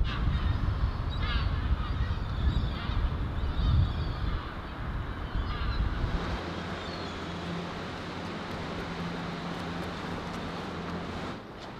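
Birds calling, with goose-like honks, over gusty wind rumble on the microphone; from about six seconds in the wind drops away and a steady low hum remains.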